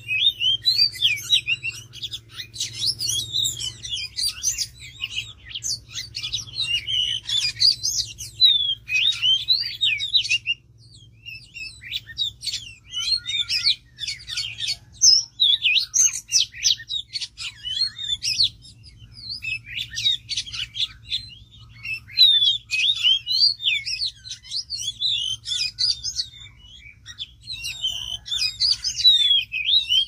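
Bird song: rapid, varied chirps and whistled phrases in long bursts, broken by short pauses.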